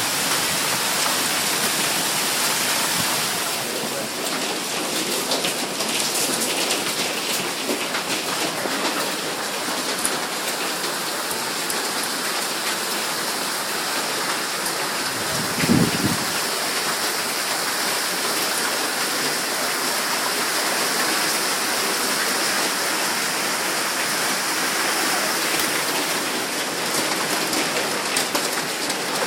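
Hail and heavy rain pelting down in a dense, steady hiss. About halfway through there is one brief low thump.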